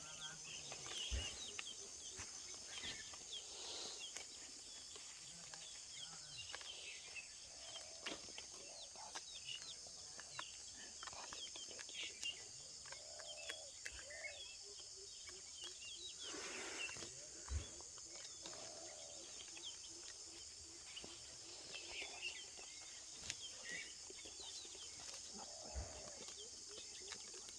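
Parrots calling in many short chirps and a few brief lower squawks, over a steady high insect drone.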